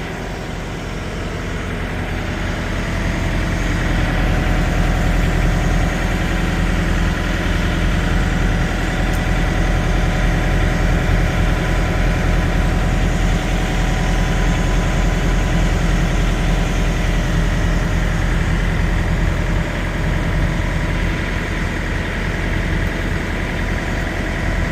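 Semi truck's diesel engine idling, growing louder over the first few seconds, then running steadily.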